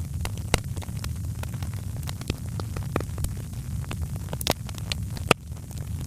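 Wood fire in a fireplace crackling, with irregular sharp pops over a steady low rumble of the flames. One pop about five seconds in is the loudest.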